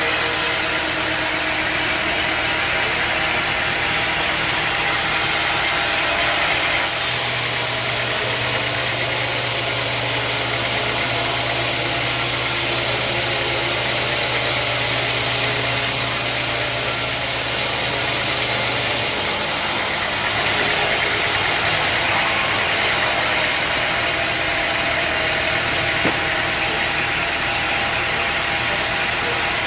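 Sawmill machinery running steadily and loudly, its sound changing between about 7 and 19 seconds in, with a stronger low hum and more high hiss, then returning to how it was.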